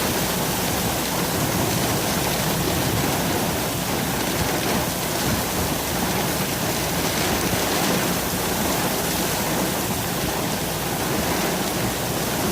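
Heavy rain hitting the car during a severe thunderstorm, a steady even hiss that neither rises nor falls.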